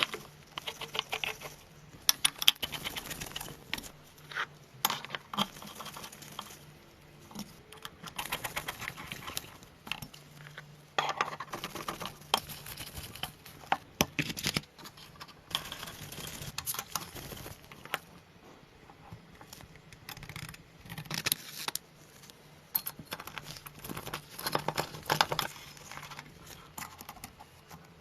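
Light, irregular clicks, taps and rattles of small engine-model parts being handled and fitted together, coming in short clusters with brief pauses between them.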